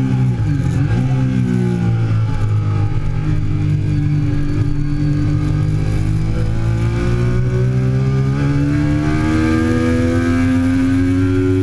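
2008 Triumph Daytona 675's three-cylinder engine running hard. Its pitch dips and recovers briefly near the start, holds steady for a few seconds, then rises in one long pull as the bike accelerates.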